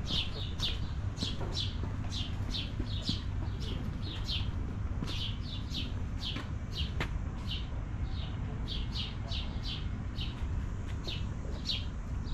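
Bird chirping: short, falling chirps repeated several times a second, over a steady low rumble.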